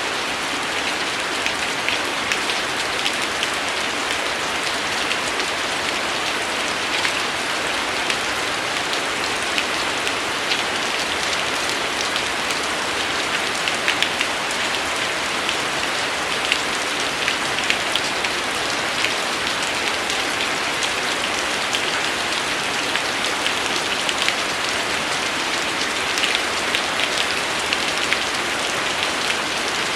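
Steady rain falling, an even hiss with many small drop ticks spattering on a surface.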